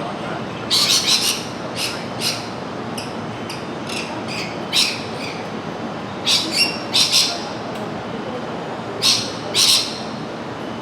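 Bird calls: short, high-pitched squawks in small clusters every second or two, over a steady background hiss.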